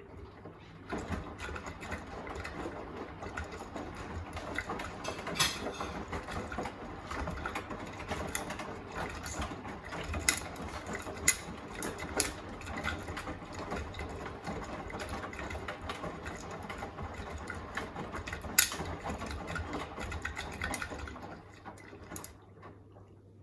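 Beko WTK104121A washing machine's drum turning, tumbling the wet load with a steady rattle and occasional sharp knocks over a low motor hum. The turn stops near the end.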